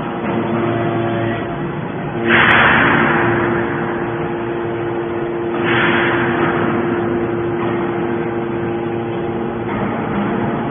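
Hydraulic scrap metal baler running, with a steady hum from its hydraulic pump. Twice, about three seconds apart, a loud rushing surge comes in suddenly and fades over a second or so.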